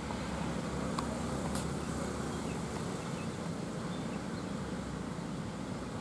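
Heavy goods truck's engine running with a steady low drone, with road and wind noise.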